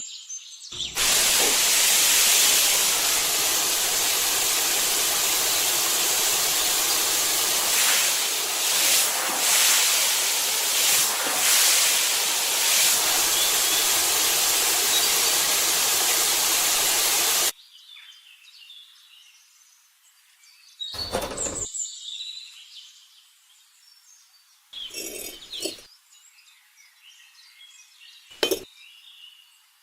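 A loud, steady hissing rush that starts about a second in and stops abruptly after about 16 seconds. It is followed by faint chirps and a few short clinks.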